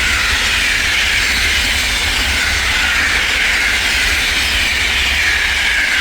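Train passing close by at speed: a loud rushing wheel-and-rail noise over a low rumble, sinking slowly in pitch. It swells in just before and begins to fade just after.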